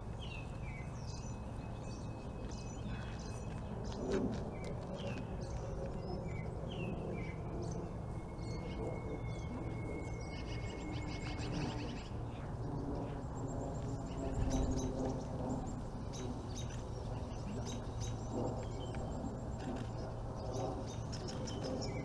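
Small birds chirping and calling again and again, with two long held whistled notes among the chirps, over a steady low background rumble.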